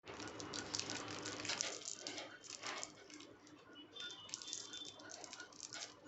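Indian ringneck parrot nibbling chocolate with its beak: a fast, irregular run of small clicks and crunches, with a brief faint high note about four seconds in.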